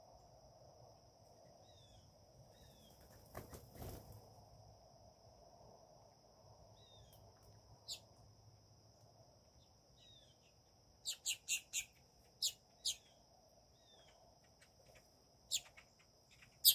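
Birds calling: faint short falling chirps now and then, then louder short calls, four in quick succession about two-thirds of the way in, two more after that, and another near the end. A steady thin high tone runs underneath, and there is a brief rustle about a quarter of the way in.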